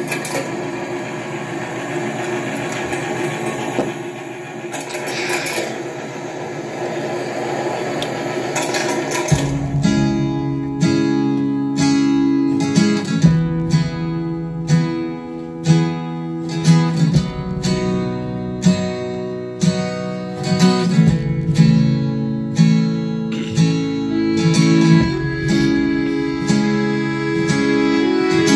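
A steady rushing noise for about the first nine seconds, then an acoustic guitar starts an instrumental intro: strummed chords in a regular rhythm.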